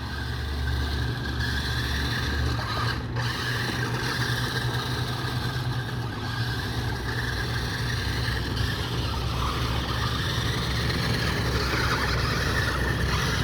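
New Bright toy-grade RC monster truck running, a steady, low engine-like hum.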